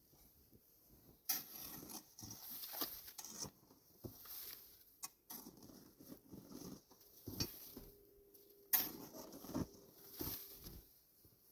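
Footsteps crunching through deep fresh snow, irregular steps about every half second to a second, with rustling between them.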